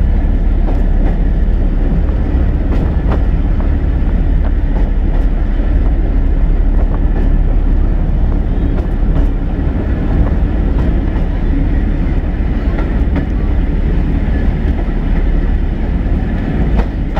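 Interior running noise of 2-EPB electric multiple unit 5759 on the move: a steady low rumble with scattered sharp clicks from the wheels over the track.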